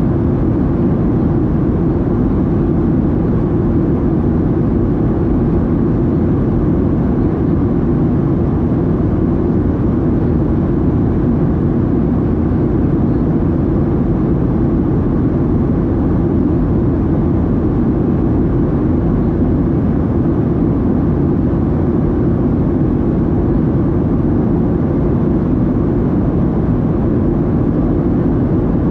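Steady, unbroken cabin noise inside a Boeing 737-700 in flight: airflow and the CFM56-7B jet engines' drone, a deep even rumble with little hiss above it.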